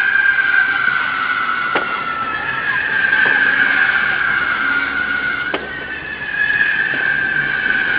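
Fireworks whistling: several long, shrill tones overlap, each slowly falling in pitch. Sharp cracks come about two seconds in and again near six seconds.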